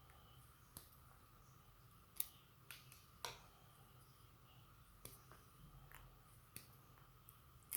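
Near silence with a faint steady hum, broken by a handful of light, scattered clicks and taps from handling the charger's small parts and cables.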